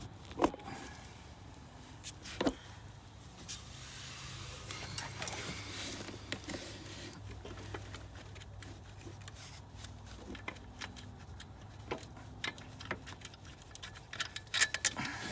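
Metal hand tools and bolts clinking and knocking during alternator removal, with sharp knocks about half a second and two and a half seconds in and a quick run of clinks near the end, over a low steady hum.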